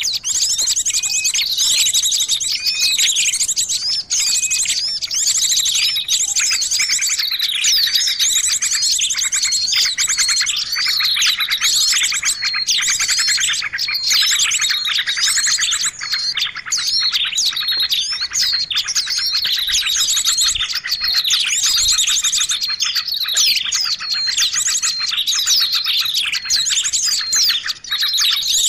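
Small-bird lure recording: a dense chorus of many small songbirds chirping and twittering at once, with quick sweeping notes and a fast high trill running continuously.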